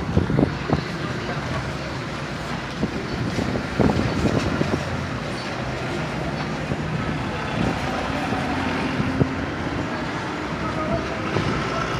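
Street traffic: vehicle engines running and passing, with a steady low engine hum and a few knocks.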